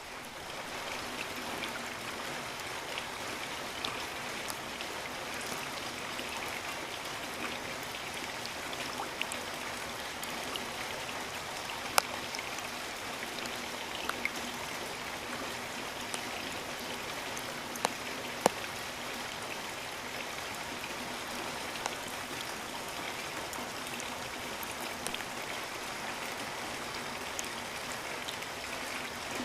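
Steady rain falling with an even hiss, with a few louder single drops striking close by, the sharpest about twelve seconds in and two in quick succession near eighteen seconds.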